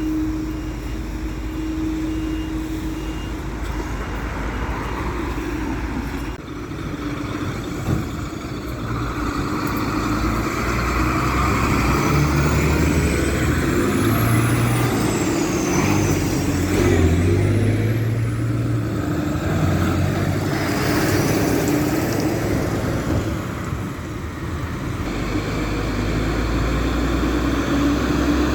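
Heavy fire trucks' diesel engines running and driving past, the rumble growing louder after about ten seconds. In the middle there are several thin, high squeals that rise and fall.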